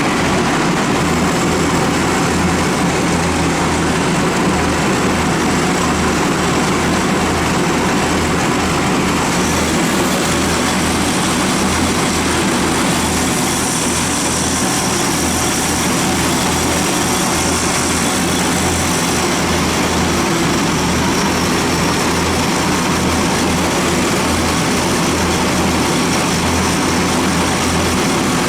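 Dixon zero-turn mower's Kohler engine running steadily with a low, even pulsing beat.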